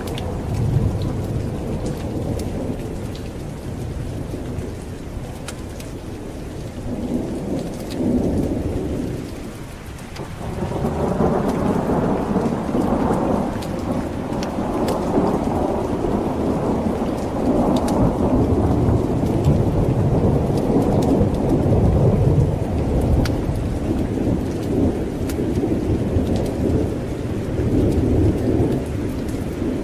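Steady rain with rolling thunder. The rumble eases off about ten seconds in, then swells into a long, louder roll that carries on under the rain.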